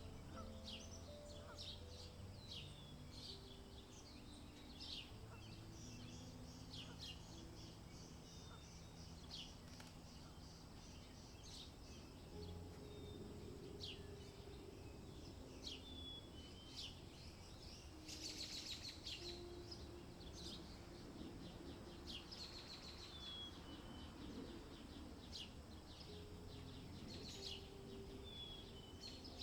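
Faint chirping of small songbirds, short high calls every second or so, with a brief buzzy trill about eighteen seconds in. Under them are soft low sustained tones that shift in pitch.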